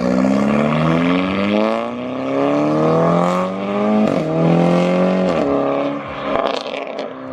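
Modified car accelerating hard, its engine pitch climbing and then dropping sharply at each upshift, three gear changes in all. A few sharp exhaust cracks come near the end.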